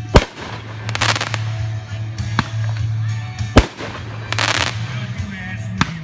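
Aerial fireworks display: shells bursting with sharp booms, the loudest just after the start and about three and a half seconds in, with smaller bangs between. Two stretches of crackling come from crackling-effect shells.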